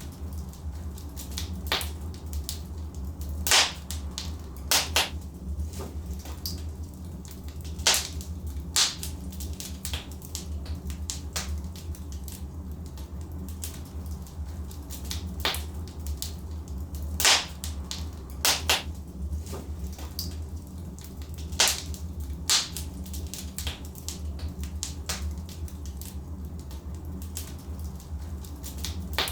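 Wood fire burning in a fireplace: irregular sharp crackles and pops from the logs, a few loud snaps among many smaller ones, over a steady low rumble of the flames.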